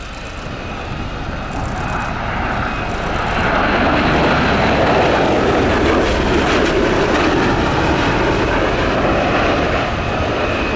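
Bell Boeing CV-22B Osprey tiltrotor in flight, its two turboshaft engines and large proprotors growing louder over the first few seconds, loudest in the middle, then easing slightly near the end.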